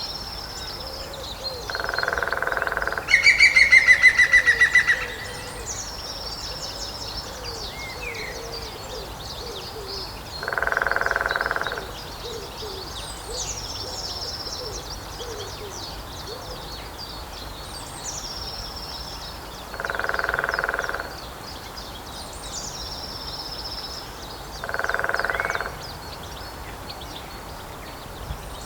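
Lesser spotted woodpecker drumming on a dead tree trunk: four rolls of about a second each, several seconds apart. About three seconds in, a green woodpecker gives a loud, rapid series of calls lasting about two seconds, the loudest sound here, and a short high bird call repeats every few seconds.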